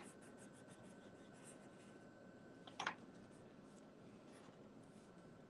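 Faint strokes of a pen on paper as a drawing is made: short, quick scratches in runs, with one slightly louder tap or scrape about three seconds in.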